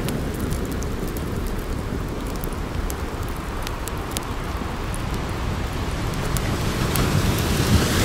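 Wood campfire crackling with many small sharp pops over the steady wash of ocean surf. The surf swells louder near the end.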